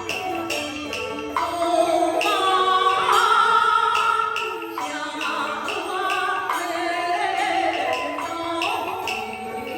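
Beiguan opera in the Fulu style: a sung melody over instrumental accompaniment, with regular sharp percussion clicks.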